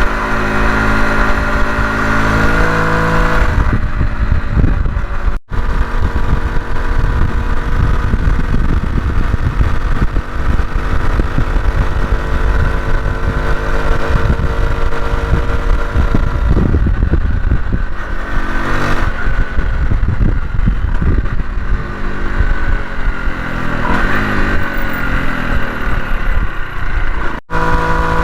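Honda CT125 Hunter Cub's single-cylinder engine running under way, its pitch rising and falling with the throttle, half buried under heavy wind buffeting on the microphone. The sound drops out for an instant about five seconds in and again near the end.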